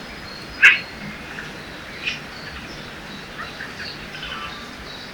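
Forest ambience by a river: steady rushing water with songbirds calling, one sharp, loud chirp under a second in and another about two seconds in, among fainter chirps.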